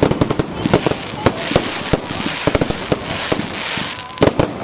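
Fireworks display going off: many sharp bangs in quick, irregular succession over a continuous crackling hiss.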